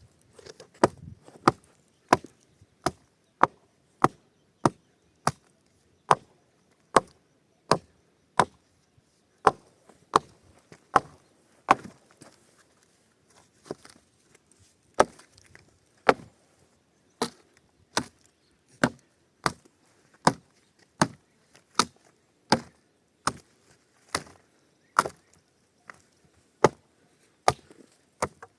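Sharp blows on wood, struck one after another at a steady working pace of about one and a half a second, with a brief pause about halfway through.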